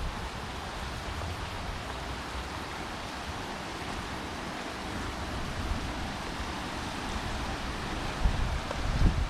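Steady rushing outdoor noise, with wind buffeting the microphone in low gusts near the end.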